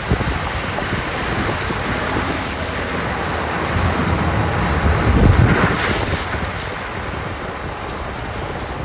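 Strong storm wind buffeting the microphone in a steady rumble, rising to a louder gust about five seconds in: the inflow wind of a tornado-producing thunderstorm.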